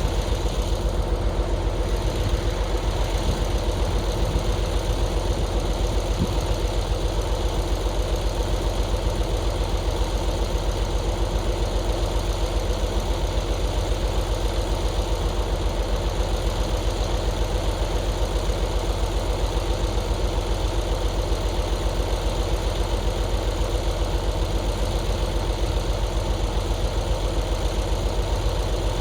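A large engine idling steadily, with a fast, even pulse that holds unchanged throughout.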